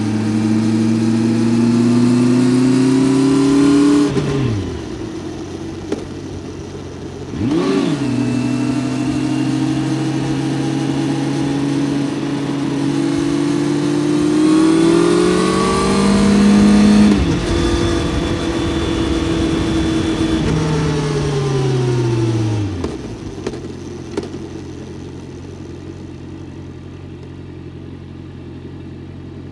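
Honda CBR650F's 649 cc inline-four engine under way: the revs climb slowly, fall off about four seconds in, rise and fall in a quick blip a few seconds later, then climb again. Past the twenty-second mark the revs wind down and the engine settles into a steady, quieter idle.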